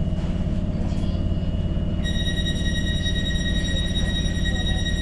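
Tyne & Wear Metro train heard from the driver's cab, running with a steady low hum. About two seconds in, a steady high-pitched tone joins and holds to the end.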